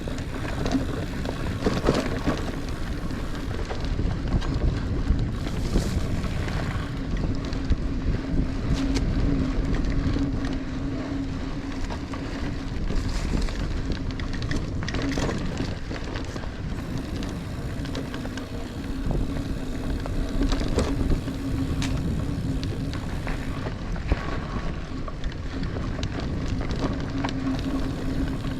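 Niner Air 9 RDO 29er mountain bike ridden along a dirt singletrack: tyres rolling over the trail and the bike rattling and clicking over bumps, with a steady low hum and wind on the microphone.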